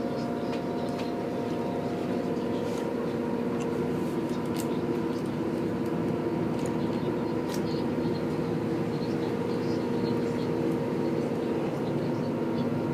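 A launch's engine running at a steady speed, a constant drone with an even hum.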